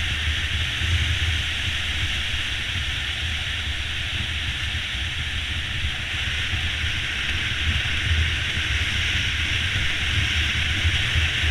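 Steady wind and road noise from a motorcycle cruising at moderate speed, over the low drone of its Honda CB500X parallel-twin engine.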